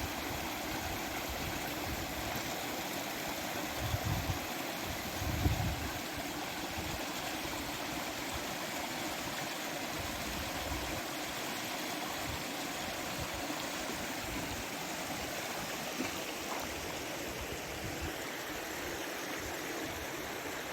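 Mountain stream rushing steadily over rocks, an even wash of water noise. A couple of low thumps come about four and five and a half seconds in.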